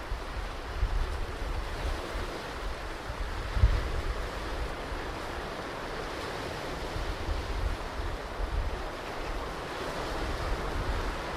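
Ocean surf washing onto a beach, a steady rushing hiss of breaking waves. Wind buffets the microphone in low rumbles, with one stronger gust about a third of the way in.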